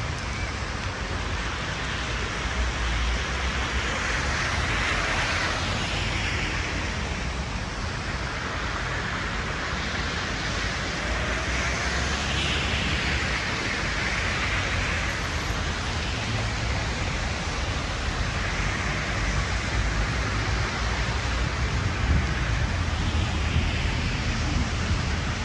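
Steady hiss of heavy rain and wind on a flooded street, with a low rumble of wind on the microphone. Several times a car's tyres swish through standing water, each pass swelling and fading over about two seconds.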